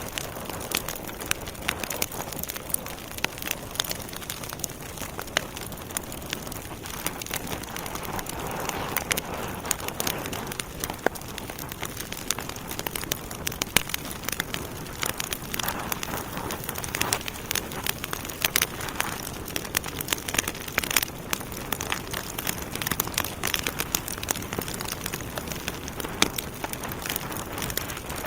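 Wood fire burning in a fireplace: a steady hiss with many sharp, irregular pops and crackles from the burning logs.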